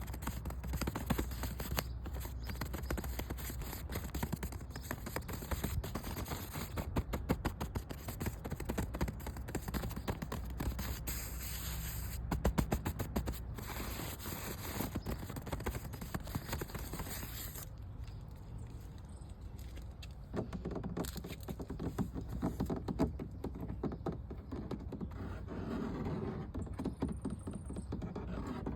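Close-up scratching and tapping on an object's surface in fast, dense strokes. About two-thirds of the way through, the sound turns duller and lower, with a steady run of rubbing strokes.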